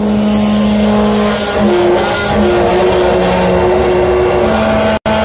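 Rooftop HVAC unit's belt-driven blower running on its newly fitted pillow-block shaft bearing: a loud, steady mechanical hum with several held tones that shift in pitch. The sound drops out for an instant near the end.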